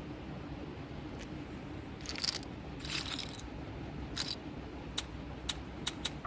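Three short scraping rattles, then a run of sharp clicks that comes faster near the end, over a steady low hum.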